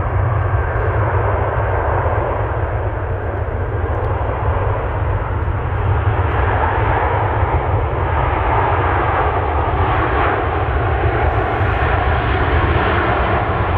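Jet airliner engines running, a steady loud rush with a faint whine, swelling slightly about halfway through.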